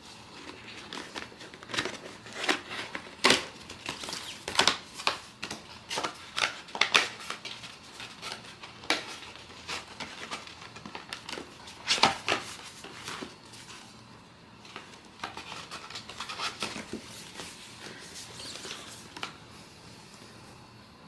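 Hands opening and handling blind-box packaging: irregular sharp clicks, snaps and crinkles of cardboard and wrapping, with a short pause about two-thirds of the way through.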